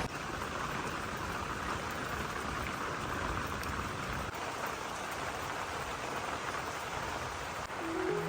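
Steady rain falling, an even hiss of many drops. Soft music comes in just before the end.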